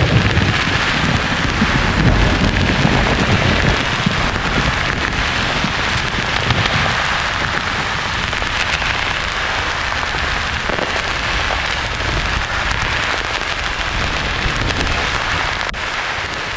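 A low thunder rumble rolls and fades over the first few seconds, over a steady, even hiss of white noise.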